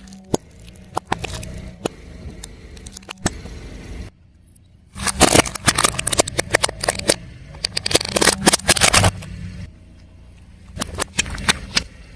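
Car tyre rolling over crunchy objects and crushing them: scattered snaps and cracks over a low engine hum. After a brief drop about four seconds in comes about four seconds of dense, loud crunching and crackling, then a few more snaps near the end.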